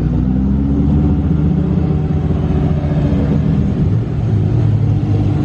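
Car engine running at low, steady revs, a deep drone whose pitch shifts gently, dropping a little about four seconds in.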